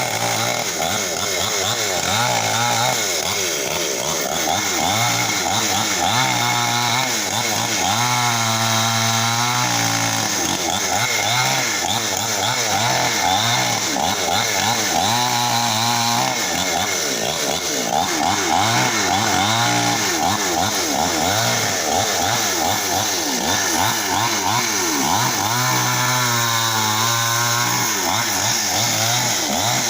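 Chainsaw running and cutting tree branches into pieces, its engine pitch rising and dipping over and over as it revs and labours in the cuts, settling briefly a few times into a steadier, lower pitch.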